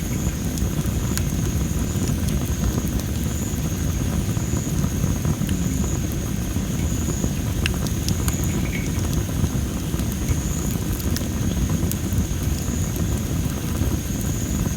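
Wood fire of dry masaki (Japanese spindle tree) logs crackling, with scattered sharp pops over a steady low rumble. A steady high-pitched insect trill runs underneath.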